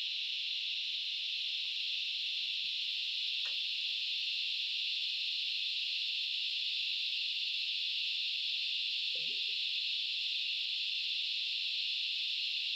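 Loud cicada chorus: a steady, shrill high-pitched drone that never lets up.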